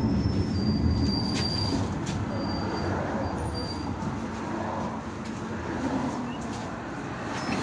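Ride noise inside an IVECO Urbanway 18M articulated city bus: a steady low rumble of drivetrain and road, with a few short high-pitched squeals and a sharp click a little over a second in.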